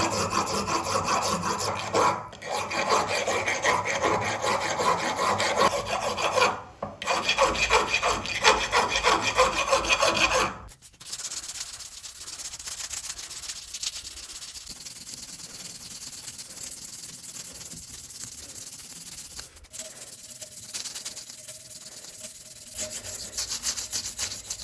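Rapid back-and-forth rubbing strokes of hand abrasive work on the karambit, loud for about ten seconds with two short breaks. Then the rubbing goes softer and quieter, and it grows louder again near the end.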